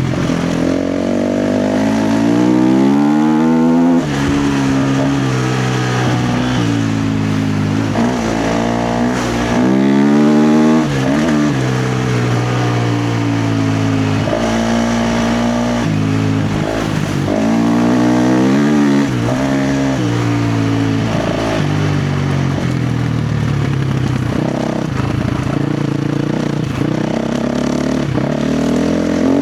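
KTM 350 XC-F dirt bike's single-cylinder four-stroke engine under hard throttle off-road, its revs climbing and dropping over and over.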